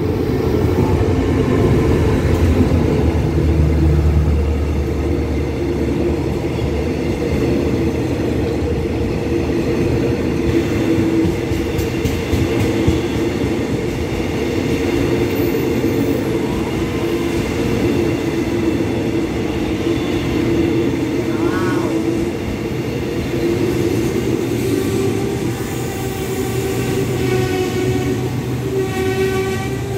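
SRT CRRC CDA5B1 diesel-electric locomotive running past with a deep engine drone, followed by its passenger carriages rolling slowly along the rails as the train draws into the station to stop. A high squeal sets in near the end as it slows.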